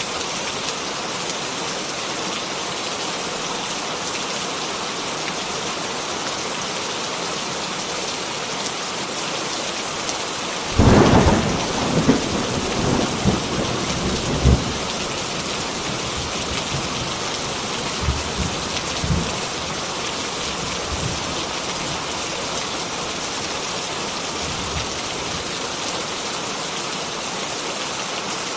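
Heavy rain falling steadily. About a third of the way in, a thunderclap breaks in and rumbles for about four seconds, followed by a few fainter rumbles a little later.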